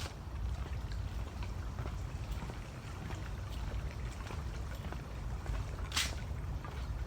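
Footsteps on a woodland trail, with a steady low rumble of wind on the microphone, faint crackles of twigs and leaves, and one sharper scuff about six seconds in.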